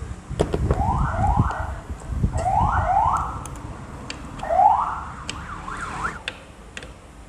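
An electronic siren or alarm whooping in short rising sweeps, mostly in pairs, over a low rumble during the first few seconds, with a few sharp clicks.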